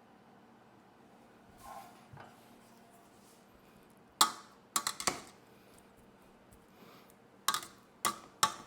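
Kitchen utensil clinking and knocking against a pot or dish: one sharp clink about halfway through, the loudest, a quick run of a few more just after, and three spaced clinks near the end.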